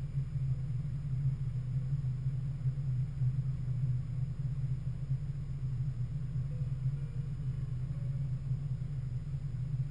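Vehicle engine running steadily, a low even rumble with no splashing or other events.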